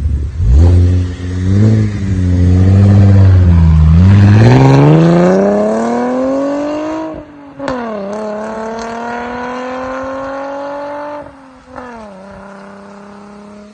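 2012 Chevrolet Camaro LT's V6 through an MBRP aftermarket exhaust, accelerating hard. The engine note climbs, falls at an upshift about seven and a half seconds in, climbs again and falls at a second shift near twelve seconds, growing fainter as the car pulls away.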